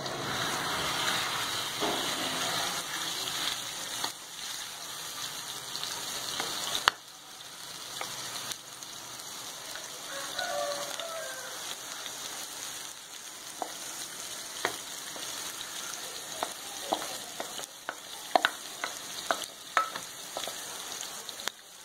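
Marinated chicken livers sizzling as they are tipped into hot ghee on a flat tawa griddle. A wooden spatula scrapes them out of a glass bowl, with scattered sharp clicks and taps, most of them in the second half.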